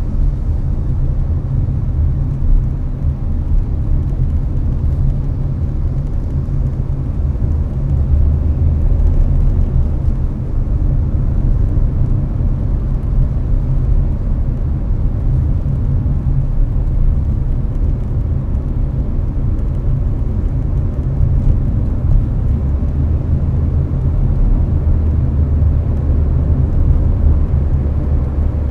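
Steady low road-and-engine rumble heard inside a Hyundai Avante's cabin while cruising at highway speed, with air-conditioner fan noise mixed in.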